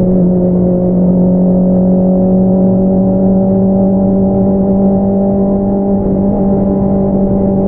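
2022 Honda CBR650R's inline-four engine running through an Akrapovič single-outlet exhaust at steady revs while riding, its note holding almost constant in pitch, with a low rumble underneath.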